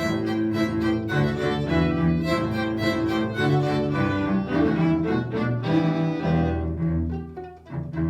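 String orchestra of violins, cellos and basses playing, with quick separated bow strokes for the first six seconds or so, then thinning to lower held notes near the end.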